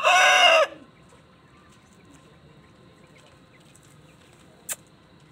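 An Aseel rooster finishing a crow: a loud held note that falls off and stops under a second in. Then only low background, with one sharp click near the end.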